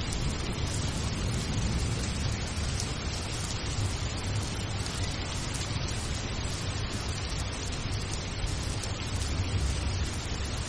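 Steady sound of rain: an even, continuous hiss with a low rumble underneath.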